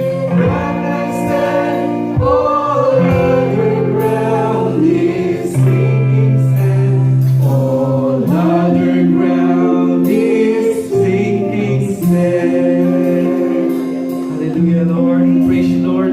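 Congregation singing a hymn together with instrumental accompaniment, long notes held.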